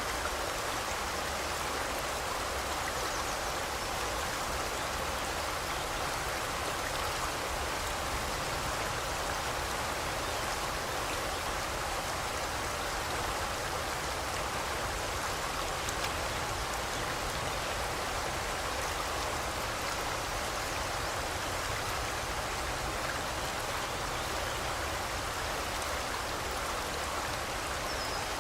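Forest river flowing: a steady, even rush of water.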